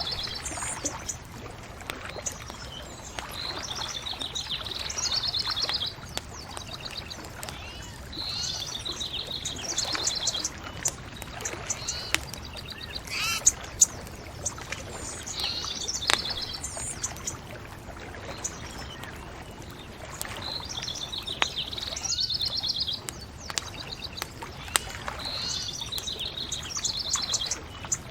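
Songbirds singing short trilled phrases that recur every few seconds over a steady rushing background, with scattered sharp clicks.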